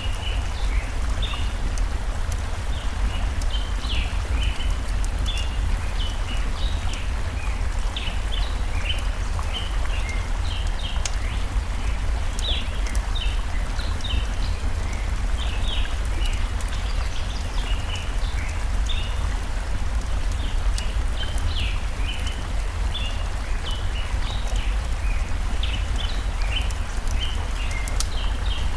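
Steady rush of a flowing stream with a deep rumble, layered with many short, high bird chirps and scattered sharp crackles of a wood fire, one louder pop near the end.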